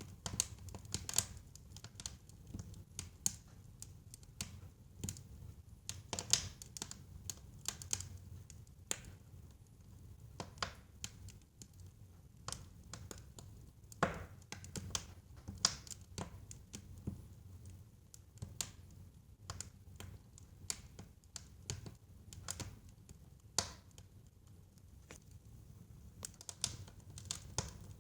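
Wood fire crackling in a fireplace: irregular snaps and pops over a low steady rumble of the flames, with a few louder pops.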